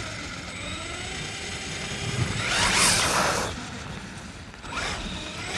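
Traxxas Raptor R RC truck's electric motor and drivetrain whining as the truck is driven. The pitch glides up and down with the throttle, and the sound rises to its loudest in one burst about three seconds in.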